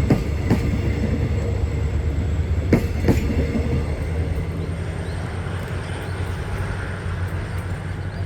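Train passing on the track: its wheels click over a rail joint in pairs, two pairs about three seconds apart, over a steady low rumble that eases off about halfway through.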